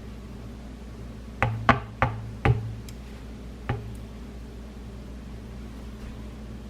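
Five sharp knocks, four close together between about one and a half and two and a half seconds in and a fainter one about a second later, over a steady low hum.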